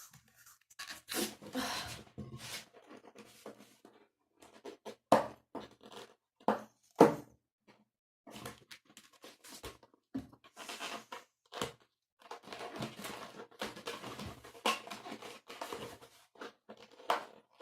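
Latex modelling balloons being blown up by mouth and handled: irregular rubbing, stretching and breathy noises with a few short sharp snaps, in stop-start bursts.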